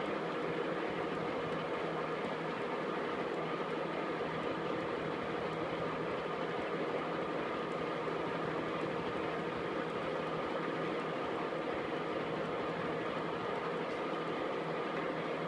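KART E1N metal lathe running steadily, an even mechanical hum and whirr with faint steady tones from the spindle drive.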